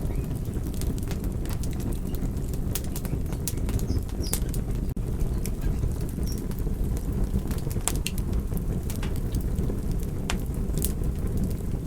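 Campfire burning, a steady low rumble under frequent sharp crackles and pops from the burning wood.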